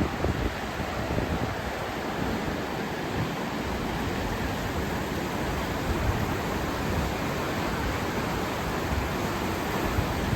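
Floodwater rushing in the swollen Wien River, a steady, even rush of noise, with wind buffeting the microphone.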